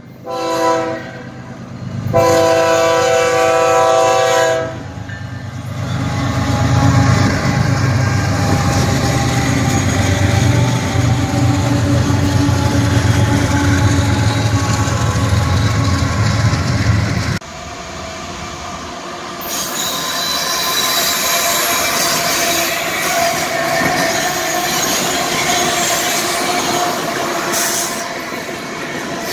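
BNSF diesel freight locomotives' horn sounds a short blast and then a long one, after which the locomotives pass close with a deep engine rumble and the clatter of wheels on rail. After an abrupt cut, a second BNSF train rolls by with rail noise and a steady high-pitched wheel squeal.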